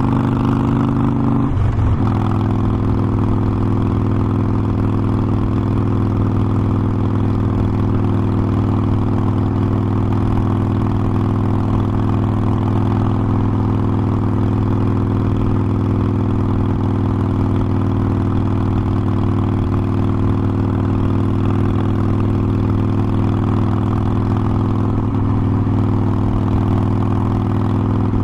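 Harley-Davidson Forty-Eight Sportster's air-cooled V-twin running under way at steady revs. The engine note shifts briefly about two seconds in, then holds steady.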